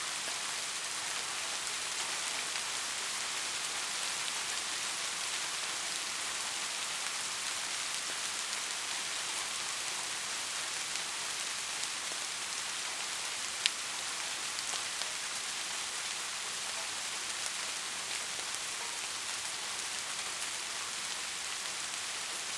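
Steady rain, an even hiss of falling drops with no thunder. A single sharp tap of a drop stands out about halfway through.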